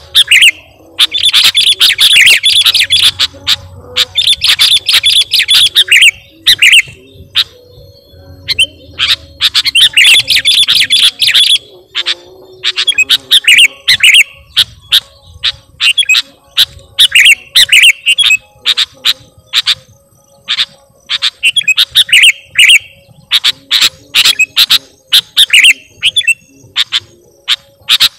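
Sooty-headed bulbul singing vigorously: repeated loud, chattering phrases about a second long, mixed with many short sharp chips. The longest, densest phrases come in the first half, with shorter ones later.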